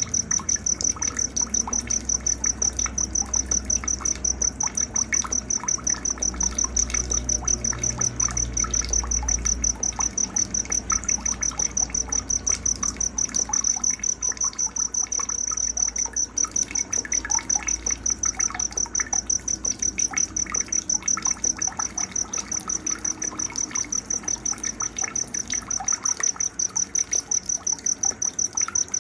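Night-time nature ambience: an insect, likely a cricket, chirping steadily in a high, rapid, even pulse, with scattered short faint calls and a low rumble that fades after about ten seconds.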